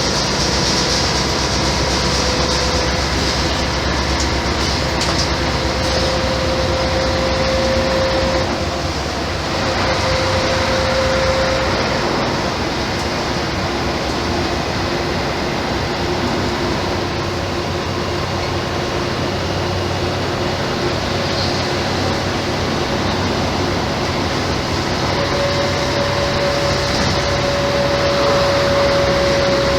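Mercedes-Benz O-500MA articulated bus with Bluetec 5 engine and ZF gearbox running under way, a steady mechanical noise with a faint whine that rises slowly in pitch, breaks off about eight seconds in, and comes back stronger near the end.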